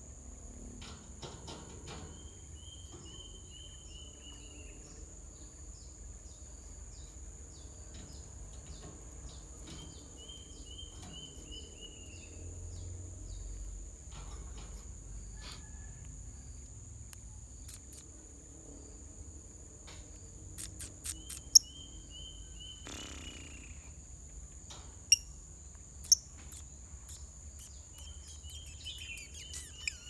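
Steady high-pitched insect buzz, with a bird's short run of notes falling slightly in pitch, heard four times. In the second half come three short, sharp, loud chirps from the caged lovebirds.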